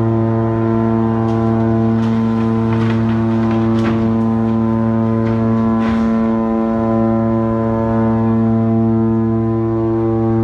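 A ship's horn sounding one long, steady, low blast.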